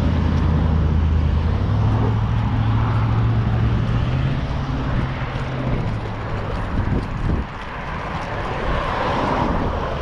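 A motor vehicle's engine runs as a low hum that steps up in pitch about a second and a half in, then dies away after about seven seconds, over steady outdoor noise.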